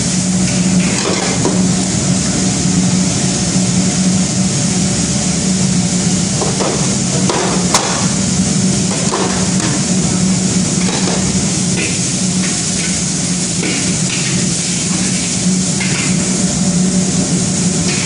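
Vegetables stir-frying in a hot pan: a loud, steady sizzle with scattered short knocks and scrapes of the utensil, over a steady low hum.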